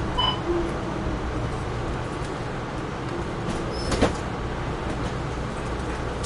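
Train rolling steadily along the track with a continuous low rumble, and one sharp knock about four seconds in.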